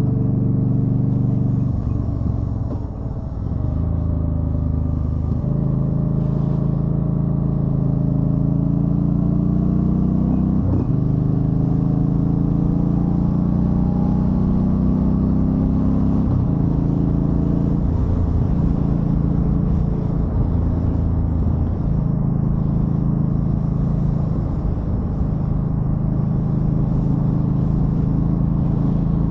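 2013 Yamaha Stryker's V-twin engine running on the move, with the engine note shifting up and down with throttle changes. It dips briefly about three seconds in.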